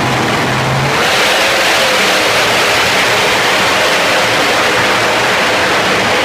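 Competition pulling tractor's engine at full throttle under load. About a second in, its low-pitched running turns into a loud, harsh blare that holds steady.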